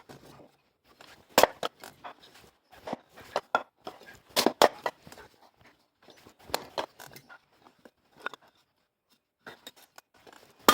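Pieces of split firewood knocking, clattering and scraping against each other as they are handled, in irregular sharp knocks with short pauses between.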